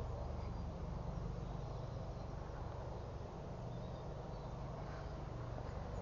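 Outdoor ambience: a steady low rumble with a few faint, high chirps over it.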